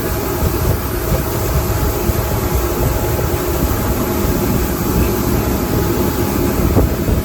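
A boat's 250 hp motor running steadily underway, with wind rumbling on the microphone.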